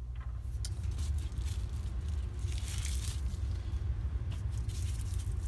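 Light rustling and small scattered clicks of plastic wrapping and LEGO pieces being handled, over a steady low hum.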